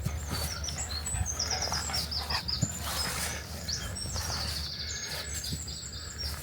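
A songbird singing a fast, varied song of quickly repeated high notes and trills, with a low steady rumble underneath.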